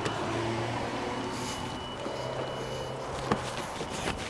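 A motor vehicle's engine running steadily in street traffic, fading out about three and a half seconds in, with a couple of sharp knocks.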